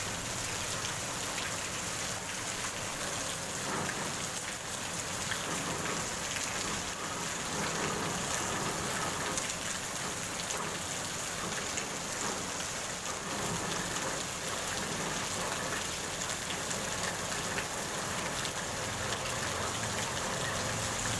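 Heavy rain falling steadily on a wet paved street and its puddles, an even hiss with no break.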